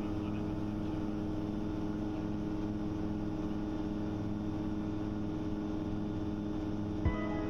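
Gyroplane engine and propeller running steadily in flight, heard as an even drone of several low tones under a noisy hiss, with a few sharp clicks near the end.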